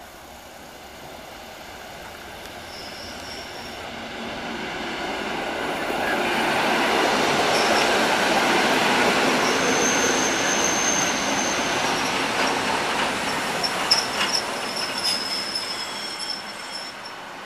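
Train running past on the rails: its rumble builds over the first several seconds, holds, then slowly fades. High thin wheel squeals come and go from about three seconds in, with a few sharp clicks near the end.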